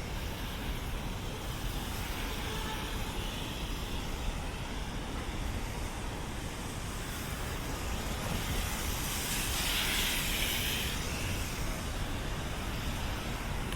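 Steady hiss of city street traffic on wet, rainy streets; a louder hiss swells and fades about ten seconds in.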